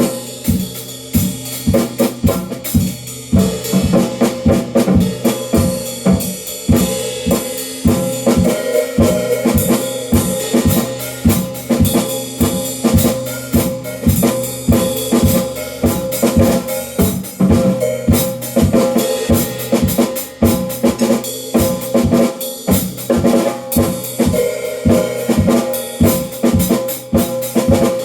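Drum kit played in a continuous groove of closely spaced hits, with bass drum and snare, and the drums ringing on between strokes.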